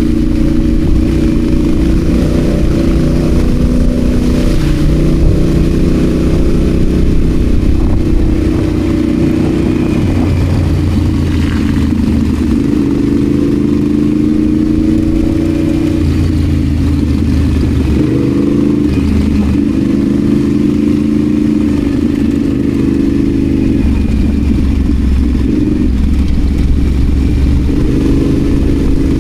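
Adventure motorcycle engine running under way off-road, its revs rising and falling with throttle and gear changes.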